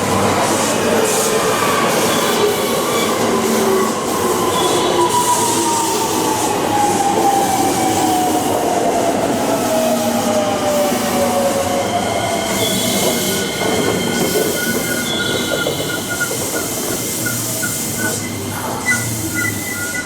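An electric train at a station platform: its motor whine falls steadily in pitch over about twelve seconds as it slows, over the rumble of wheels on rail. High steady squealing tones take over in the latter part.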